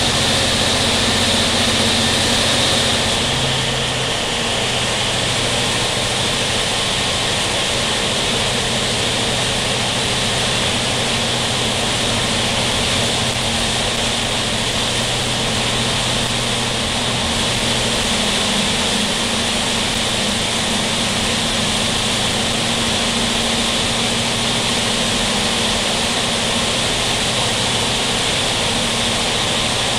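Steady running noise of a Taiwan Railway ordinary-train passenger coach moving through a long tunnel: wheels on rail and rushing air echoing inside the carriage, with a steady low hum underneath.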